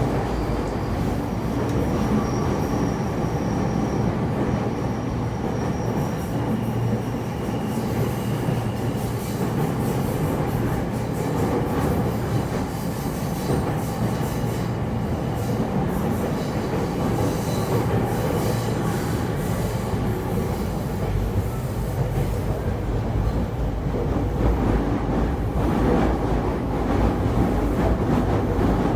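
E231 series electric train running on the rails with a steady rumble of wheels and running gear. A thin high squeal sounds twice in the first several seconds, and fainter high squeals come and go later.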